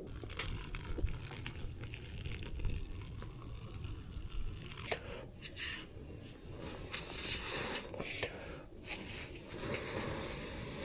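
Plastic instant-noodle packet crinkling and being torn open, with small clicks and knocks, over a steady low rumble.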